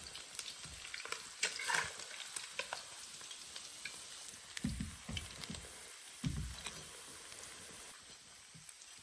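Oil sizzling as pan-fried fish pieces are lifted out of the pan, with scattered spatula clicks against the pan and a couple of soft low thumps about halfway through.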